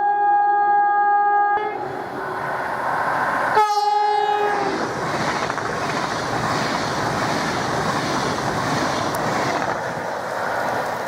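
Train horn blowing a steady chord that cuts off about a second and a half in, then a second short blast, followed by the rumble and rattle of the train passing over the rails.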